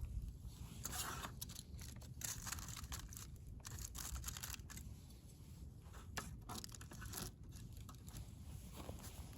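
Irregular rustling and crinkling, like paper or plastic being handled and torn, in short uneven bursts.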